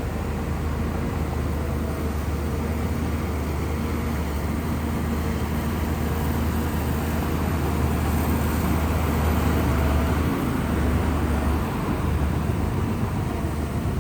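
Shantui bulldozer's diesel engine running steadily under load with a deep, even hum, growing a little louder past the middle.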